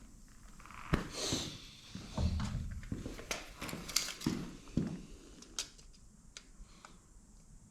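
Hand work on a motorcycle's front-wheel parts: a run of light knocks, clicks and scrapes over the first five seconds, then a few faint ticks, as the axle washer and wheel are set and measured.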